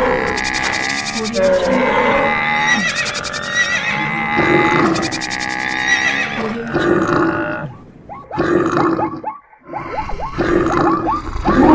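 Animal calls played as sound effects over background music, changing from call to call, with a quick run of short falling calls in the last few seconds.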